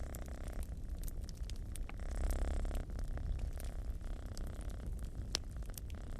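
A cat purring steadily and deeply, slightly louder about two seconds in, over the scattered snaps and crackles of a wood fire burning in a fireplace.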